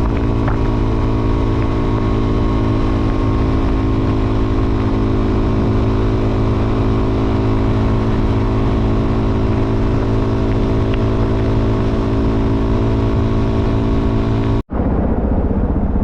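Suzuki DR-Z400SM's single-cylinder four-stroke engine running steadily at an unchanging speed. The sound cuts out abruptly for a moment near the end, then the engine is heard again with a rougher tone.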